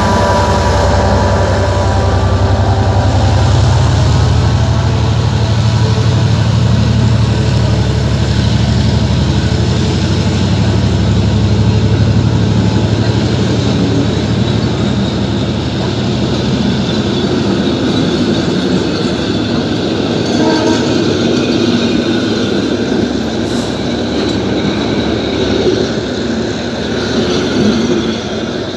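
Train running on the rails with a loud, steady rumble. Its horn is sounding as it begins and fades away within the first few seconds, and the deep low hum drops off about halfway through.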